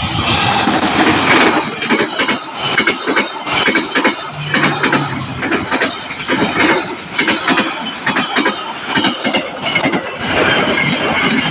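A passing train's wheels clattering loudly and irregularly over the rail joints at a level crossing.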